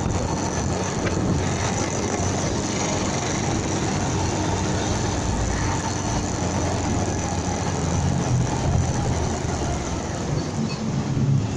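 Motorcycle underway: steady wind rush over a helmet or bike-mounted dashcam microphone with a low engine drone, which grows briefly louder about eight seconds in and again near the end.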